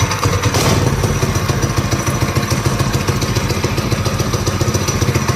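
Mini bike's small single-cylinder four-stroke engine running steadily just after being kick-started, firing in a fast even patter.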